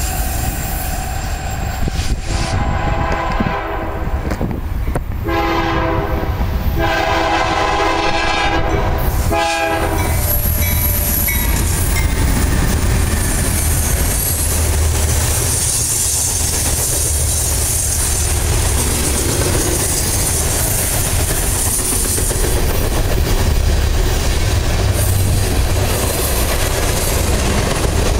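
A diesel locomotive horn sounds several blasts, starting about two seconds in and ending about ten seconds in. Then a freight train runs past, led by GE Dash 9 locomotives, the cars clattering over the rails in a steady rumble.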